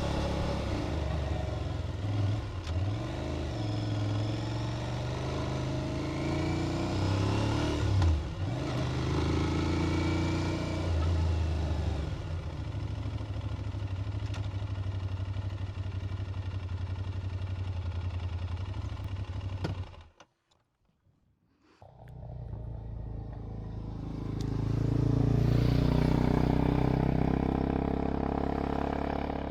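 Aprilia Tuareg 660's parallel-twin engine running under way, its revs rising and falling as it rides. The sound cuts out for about two seconds past the middle, then the engine comes back and swells louder near the end.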